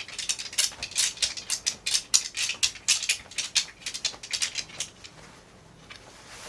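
Rapid, irregular light clicks and rustles, several a second, from something being handled; they thin out and stop about five seconds in.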